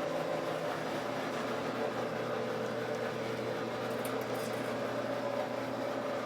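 Steady mechanical hum with a low tone and a higher mid-pitched tone held constant throughout.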